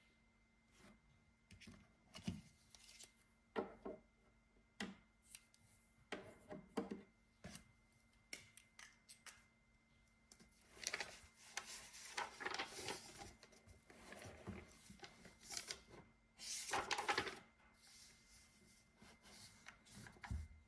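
Faint desk-work sounds: scattered light clicks and taps with stretches of rustling, the loudest burst about 17 seconds in, over a faint steady electrical hum.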